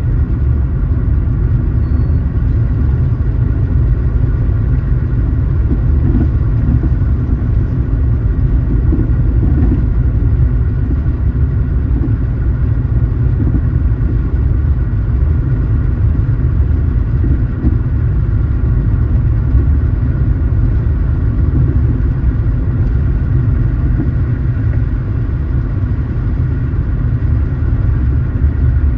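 Car driving at a steady speed: a constant low rumble of engine and road noise with a faint steady whine above it.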